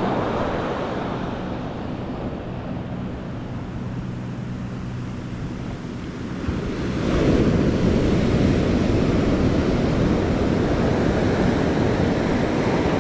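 Ocean surf washing, with wind buffeting the microphone; the rush eases off, then swells up again about halfway through and holds.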